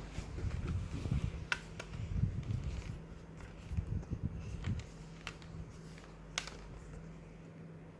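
Mini split air conditioner running with a steady low hum. Irregular low knocking and rumbling can be heard for the first few seconds, and a few sharp clicks are scattered through.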